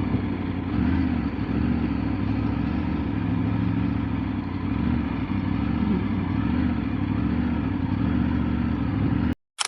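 Motorcycle engine running steadily while riding, its pitch rising and falling a little with the throttle. It cuts off abruptly near the end, followed by a brief sharp burst of noise.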